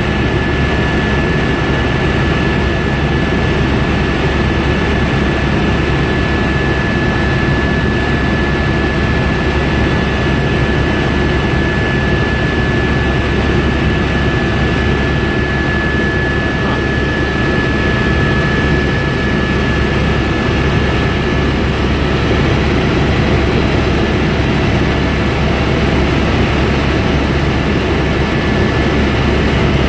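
Helicopter in flight, heard from inside the cabin: the steady noise of the engine and rotor, with a thin, steady high whine over it.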